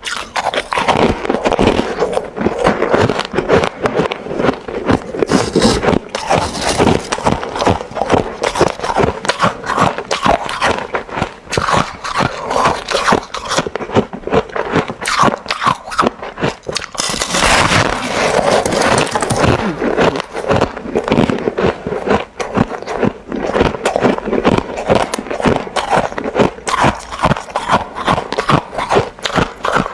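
Ice being chewed close to the microphone: a fast, continuous run of crunches and crackles, with a denser stretch of grinding about two-thirds of the way through.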